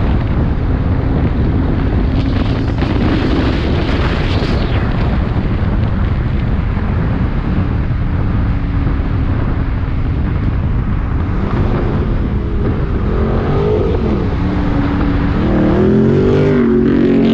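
Car engines running loudly with a heavy steady rumble, and an engine revving in the last few seconds, its pitch climbing and falling.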